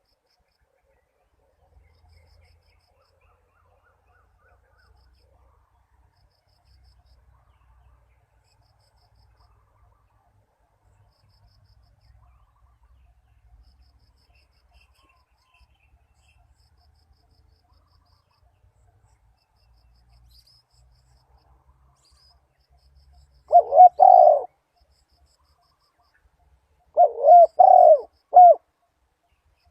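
Spotted dove cooing after a long quiet stretch: a short two-note coo about three-quarters of the way through, then a phrase of about four coos near the end.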